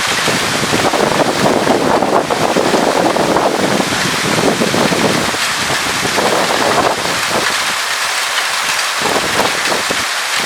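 Hailstorm: hail and rain pelting down in a dense, continuous hiss. Gusts of wind buffet the microphone, swelling and easing.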